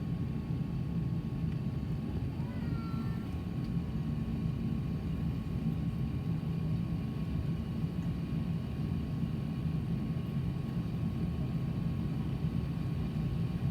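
Airbus A380-800 with Rolls-Royce Trent 900 engines running, heard from inside the cabin: a steady low rumble with a faint steady whine above it.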